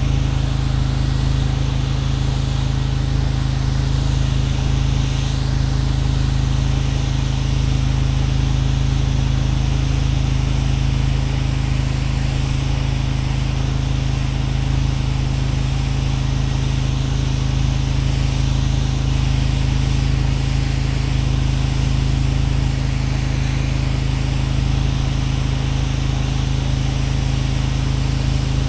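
Gas engine of a pressure washer running steadily under load, with the hiss of the water spray as the concrete driveway is rinsed.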